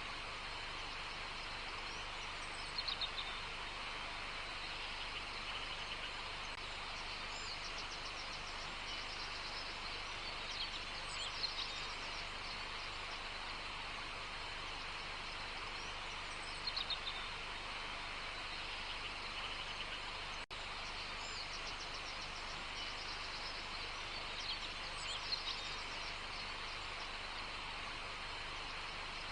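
Birds singing short phrases every few seconds over a steady high hiss of outdoor background noise.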